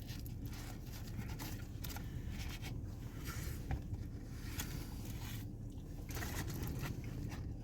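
A person chewing a bite of grilled chicken wrap close to the microphone: irregular soft crunching and scraping strokes, over a steady low hum.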